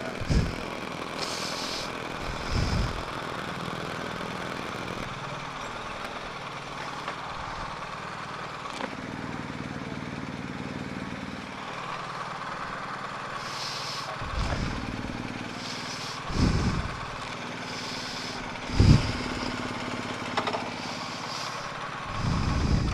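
BMW R 1250 GS Adventure's boxer-twin engine running steadily as the bike is ridden, with about six short low thumps scattered through.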